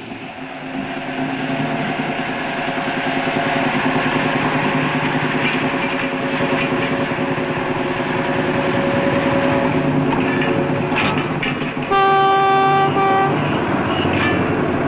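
Steam-hauled train of Pullman coaches running past, a steady rumble and rattle of wheels on rail that grows louder over the first few seconds. A single locomotive whistle blast of just over a second sounds near the end.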